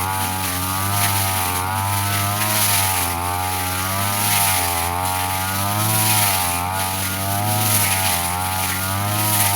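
Brush cutter engine running at high speed, its pitch dipping and recovering about once a second as the spinning blade sweeps through grass and takes load.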